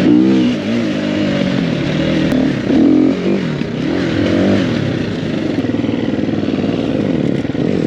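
Dirt bike engine revving up and down as it rides along, its pitch rising and falling with the throttle.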